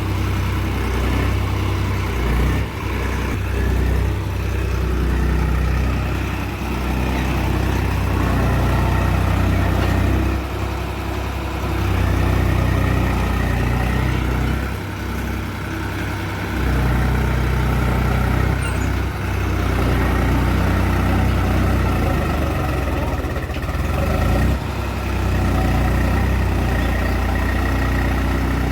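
Farm tractor's diesel engine running steadily under working load, its sound dipping and picking up again several times.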